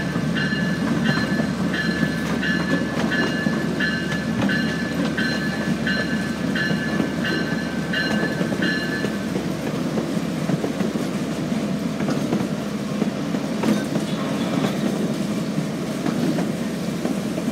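One-third-scale park train riding along the track: a steady rumble with wheel clatter. Over the first half a ringing tone repeats about twice a second, then stops about nine seconds in.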